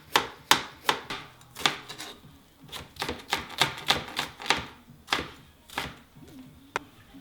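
Knife chopping ginger on a cutting board: a quick, uneven run of sharp strikes, about two or three a second, with a brief pause about two seconds in.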